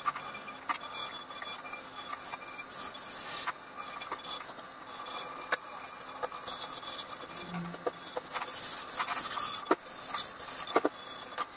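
Metal machine parts being handled on a workbench: scattered clinks and knocks, with bursts of scraping and rustling about three seconds in and again near the end.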